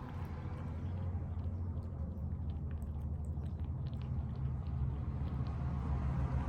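Pets, most likely cats, eating tuna from a bowl: soft wet chewing and small clicking mouth sounds over a steady low rumble that slowly grows louder.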